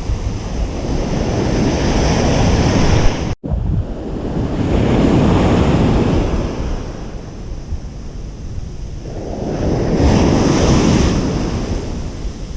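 Ocean surf washing onto a beach, the noise of the wash swelling and fading about three times, over a low rumble of wind on the microphone. A split-second gap in the sound a little over three seconds in.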